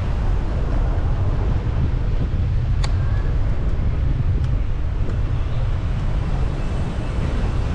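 Wind buffeting the microphone of a camera on a moving bicycle, a steady low rumble, with one sharp click about three seconds in.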